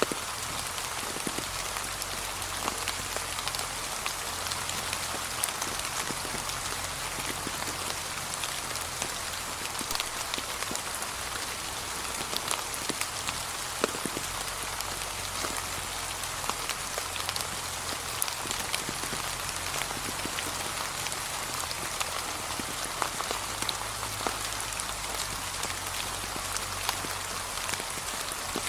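Steady light rain falling, with many distinct drops tapping close by amid the even patter, and a low rumble underneath.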